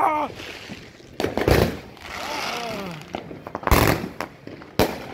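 500 g consumer firework cake firing: several sharp bangs a second or more apart, with a hissing crackle from the rising comet tails between shots.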